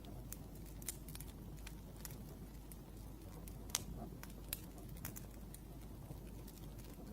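Wood fire crackling, with irregular sharp snaps and pops over a low steady rumble; the loudest snap comes a little past halfway.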